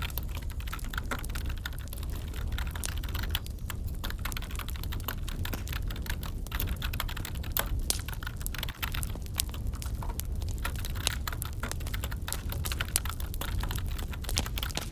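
Computer keyboard typing: quick, irregular keystroke clicks that run on without a break, over a steady low crackling and rumbling wood fire in a fireplace.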